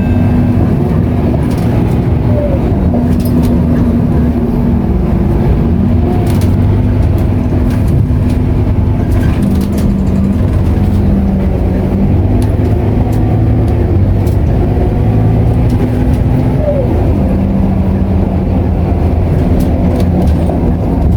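Scania K230UB bus's five-cylinder diesel engine running steadily under way, heard from inside the passenger cabin as a low drone with light scattered rattles.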